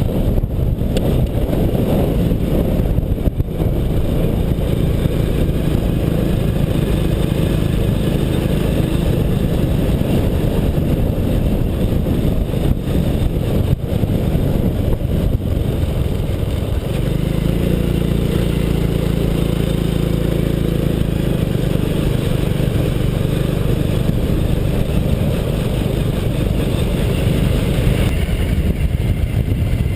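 Motorcycle engine running steadily under way, with heavy wind rumble on the microphone; the engine note changes about 17 seconds in.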